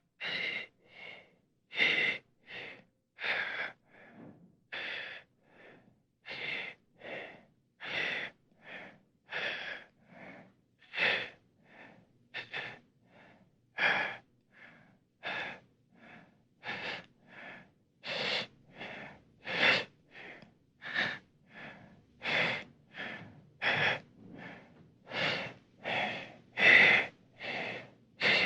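A person breathing hard in ragged gasping breaths, about one a second, in a long unbroken run. The breaths grow louder in the second half.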